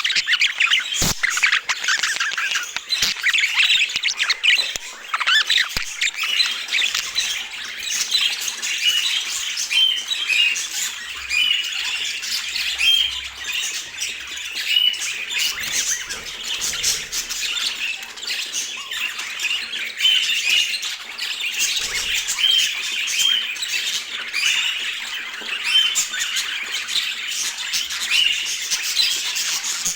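Budgerigars chattering: a dense, unbroken stream of warbles, clicks and squawks, with short sharp chirps repeating every second or so.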